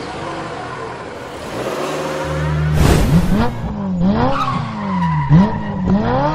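Car engine sound effect: the engine settles into an idle about two seconds in, then is revved up and down about four times in quick succession.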